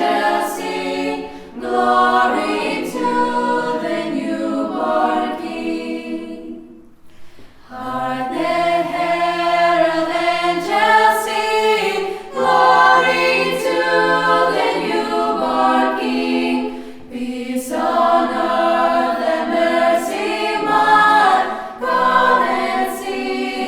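Choir singing in phrases, with a brief pause about seven seconds in and shorter breaths later.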